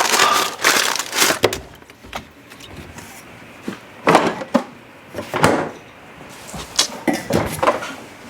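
Someone rummaging through a refrigerator: a string of separate knocks and clatters with rustling between them.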